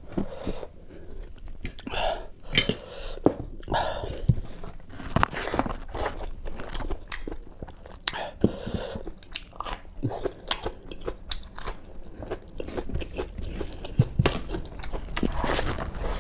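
Close-miked chewing and crunching of food eaten by hand: rice, mutton and a bite of raw king chilli, with many short crunches and wet mouth sounds and occasional clinks of dishes.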